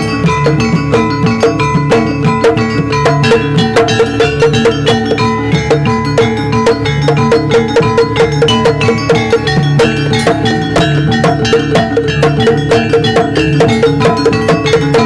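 Javanese jaranan gamelan music: struck metal gong-chimes and keyed metallophones with drums, played in a fast, steady, busy rhythm.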